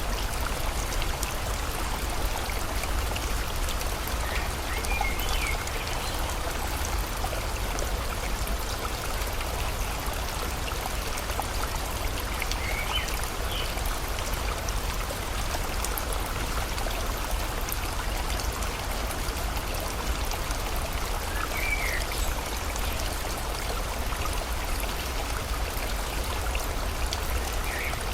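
Steady rushing water of a stream mixed with rain, with a short bird call breaking through four times, roughly every eight seconds.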